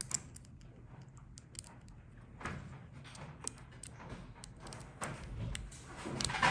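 Handling noise of small fidget-toy parts being fitted together by hand: scattered light clicks and taps with soft rubbing, a little louder near the end.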